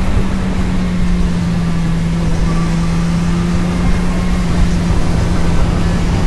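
Vehicle engine running at a steady, nearly constant speed while driving, a steady hum with low rumbling road noise beneath.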